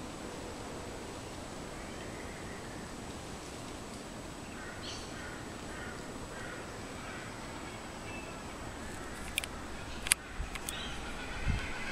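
Steady outdoor background hiss with a bird calling in a series of short, evenly spaced notes from about a third of the way in. Near the end come a few sharp clicks and a low thump.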